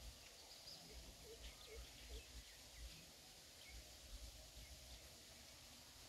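Faint outdoor wetland ambience: scattered short, high bird chirps, mostly in the first half, and three short low notes between one and two seconds in, over steady hiss and a low uneven rumble.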